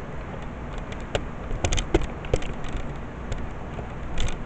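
A few short clicks and knocks of things being handled and set down, bunched about a second and a half to two and a half seconds in and again near the end, over a steady background hiss.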